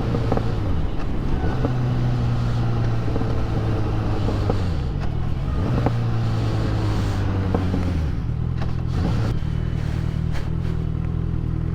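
Motorcycle engine running while riding, its pitch easing down and then rising again several times, over steady wind and road noise.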